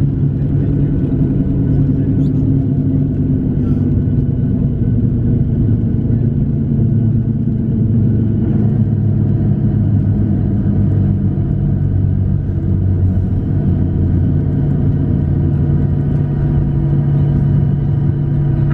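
Cabin noise of a Boeing 737-700 on the ground after landing: its CFM56-7B engines hum steadily at low power over the rumble of the aircraft rolling.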